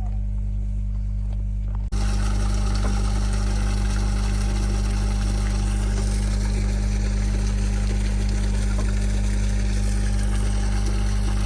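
A vehicle engine running steadily with a low, even hum; about two seconds in, a broad rushing noise joins it and holds.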